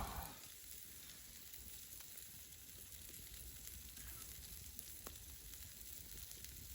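Wild boar kebabs sizzling over a campfire: a soft, steady hiss with a couple of faint crackles.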